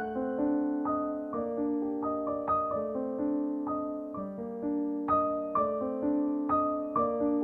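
Soft background piano music: a slow melody of single notes over sustained chords.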